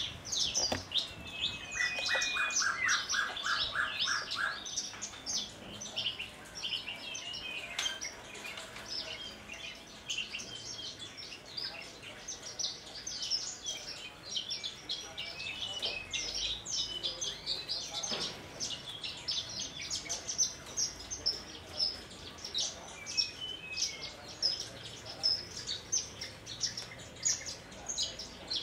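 Javan bush lark (branjangan) singing a long, unbroken stream of fast, high chirps and trills, with a short run of evenly spaced lower notes two to five seconds in.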